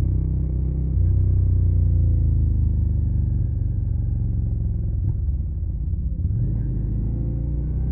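Suzuki SV650's V-twin engine through a Yoshimura Alpha carbon exhaust, running steadily on the move with a deep rumble; the engine note eases slightly, then climbs again near the end.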